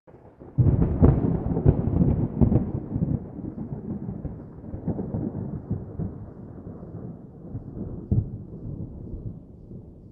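Deep, thunder-like rumbling that starts abruptly with a cluster of heavy booms over the first few seconds, then another boom near the eight-second mark, and fades slowly away.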